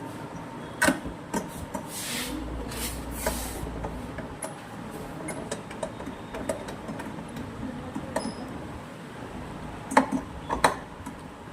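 Hand tools and metal parts of a washing machine's clutch and drum assembly knocking, clinking and scraping during a repair, with sharp knocks about a second in and twice near the end, and a stretch of scraping in between.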